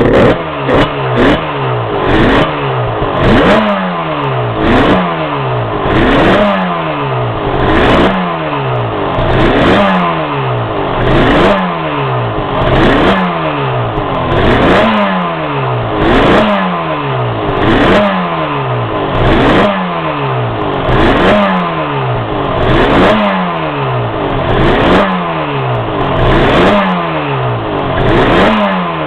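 Yamaha RZ350R two-stroke parallel-twin engine being blipped over and over, about once every second and a half. Each blip is a quick rise in revs followed by a slower fall back. The owner wonders whether it is running a bit rich overall.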